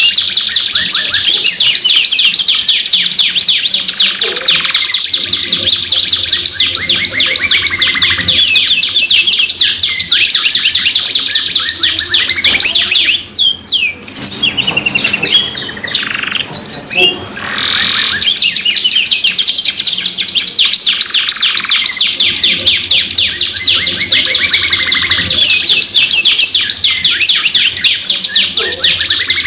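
Domestic canaries singing in long, rapid rolling trills, loud and continuous. About halfway through, the song breaks into a shorter passage of slower, sweeping whistles and chirps before the fast rolls resume.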